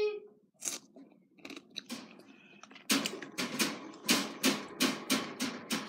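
Crunchy food being chewed right at the microphone: a few faint crunches at first, then from about three seconds in a steady run of sharp crunches, about three or four a second.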